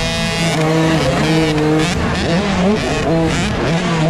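Small two-stroke motocross engine of a KTM junior bike, heard on board, revving up and down as the throttle is worked, its pitch rising and dropping several times.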